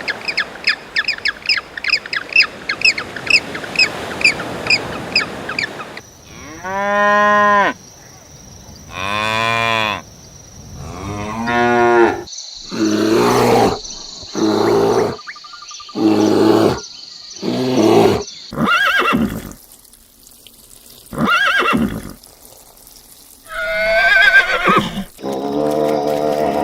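A run of animal-sound clips, mostly cattle mooing in long calls, several of them rising and falling in pitch. The first few seconds are instead rapid high-pitched chirping, about four to five chirps a second.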